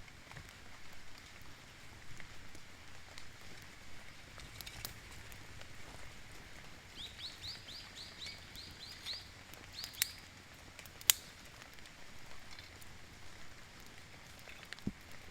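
A bird calls a quick run of about nine short rising chirps, then a few more, over a steady hiss of light rain. Two sharp clicks stand out just after the chirps.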